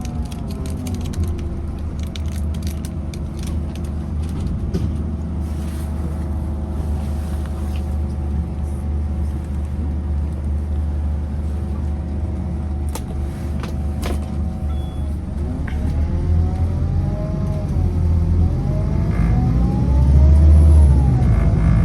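Scania CK320UB Citywide bus engine running under way, a deep rumble with an engine note that falls as the bus slows, holds steady, then rises and falls again as it pulls away through the gears. A few sharp clicks or rattles come about halfway through.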